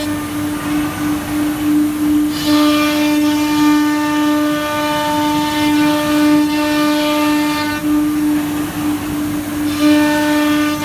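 An ATC CNC router's spindle running with a loud, steady whine. A brighter layer of higher tones sits on top of it, dropping out for about two seconds at the start and again near eight seconds in.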